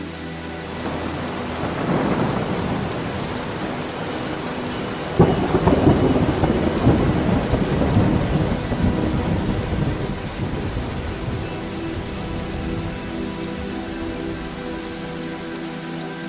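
Steady heavy rain falling, with thunder. A low rumble swells about a second in, then a sharp thunderclap about five seconds in rolls on and slowly fades.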